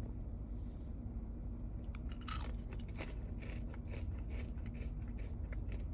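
Someone biting into and chewing a crunchy freeze-dried gummy candy cluster. There is one sharp crunch about two seconds in, then a run of irregular crunches.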